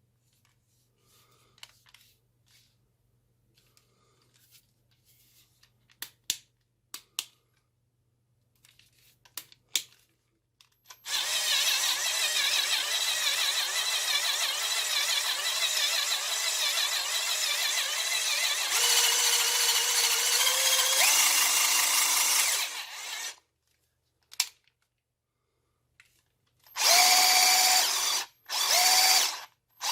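12 V cordless drill: a few light handling clicks, then the motor and gearbox run for about twelve seconds, the pitch shifting partway through. Near the end come three short trigger-pulled bursts.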